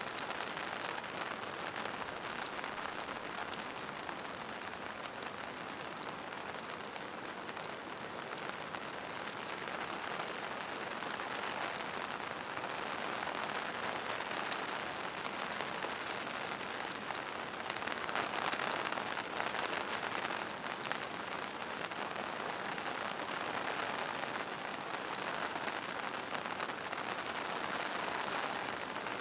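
Steady rain falling in a forest, pattering on leaves and mossy rocks, with fine drop ticks, swelling a little now and then.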